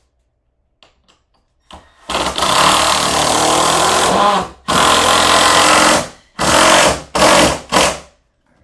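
Power drill driving screws, running in bursts: a run of about two seconds, another of about a second and a half, then three short pulses as the screw seats, after a few light knocks.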